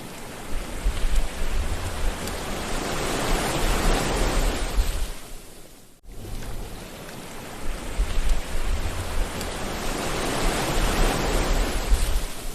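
Sea waves washing ashore in two surges, each building over a few seconds and then fading, with a sudden brief drop-out about halfway.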